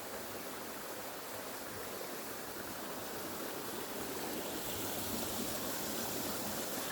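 Steady rush of a waterfall and stream, an even hiss of flowing water that grows slightly louder toward the end.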